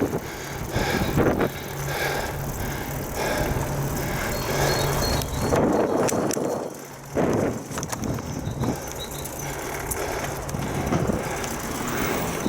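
Riding noise from a bicycle ride: wind buffeting the microphone and rolling noise, with a steady low hum through most of it that breaks off briefly about halfway.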